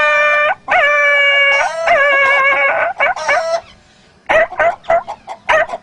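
A man imitating a dog yelping in pain after being hit with a stick: a run of four drawn-out, whining cries, each rising sharply at its start. Near the end come several short choppy sounds.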